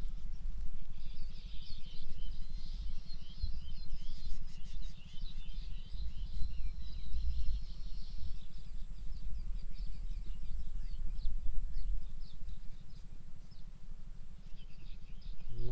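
Birds chirping and twittering, busiest in the first half and then sparser, over a steady low rumble such as wind on the microphone.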